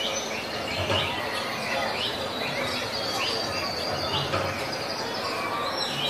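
Bird chirps: short rising calls repeated about once or twice a second over a steady hiss.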